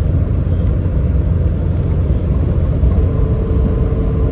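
Toyota AE86 Sprinter Trueno heard from inside the cabin while driving, a steady low engine and road rumble. A faint steady whine joins about three seconds in.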